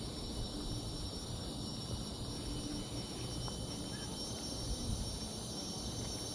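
Steady, high-pitched chorus of insects, several unbroken tones layered together. A low, uneven rumble runs underneath.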